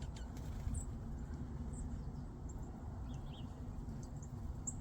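Small birds at a feeder giving short, high chirps, a few scattered calls over the seconds, faint against a steady low rumble.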